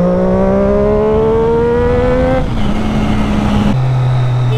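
Triumph Daytona 675R's inline three-cylinder engine pulling hard under acceleration, its pitch climbing steadily for about two and a half seconds before an upshift drops it, followed by a second upshift about a second later.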